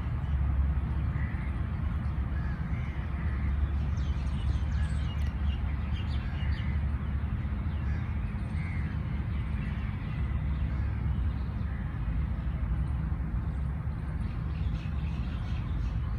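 Outdoor birdsong: birds giving short repeated calls about once a second, with thinner high chirps among them, over a steady low rumble.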